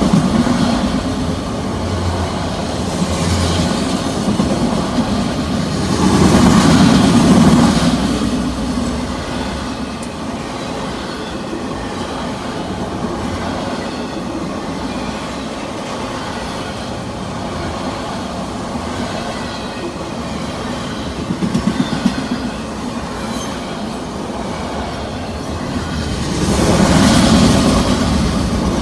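Norfolk Southern autorack freight cars rolling past at track side: steel wheels rumble steadily on the rail with clickety-clack, swelling louder about six seconds in and again near the end.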